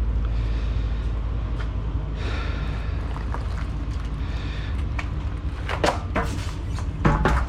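Knocks and scraping as a long metal extrusion rail is picked up and handled, with sharp knocks near the middle and near the end, over a steady low rumble.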